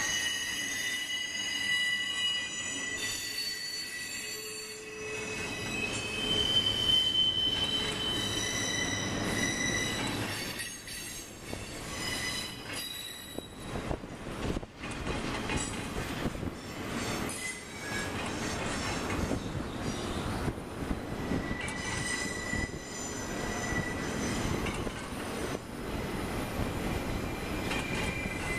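Double-stack intermodal freight train rolling through a tight curve. Its wheels squeal in several high, steady tones that come and go over the rumble and clatter of the cars.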